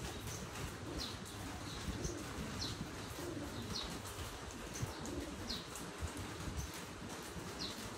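Birds outdoors: a small bird's short high chirps repeating about once a second, with a low cooing call a couple of times, over a steady background hiss.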